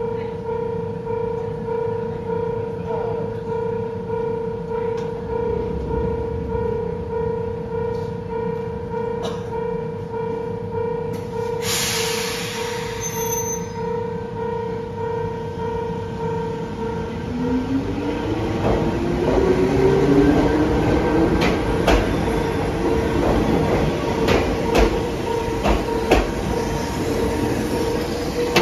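Ohmi Railway electric train at a station: a short hiss of released air about twelve seconds in, then the train pulls away, its motor whine rising in pitch and its wheels clicking over rail joints as it passes close by, under a steady tone.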